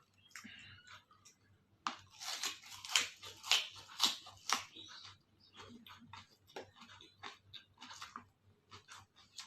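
A person chewing and crunching crisp food close to the microphone: a dense run of loud crunches from about two to five seconds in, then quieter, scattered crunches.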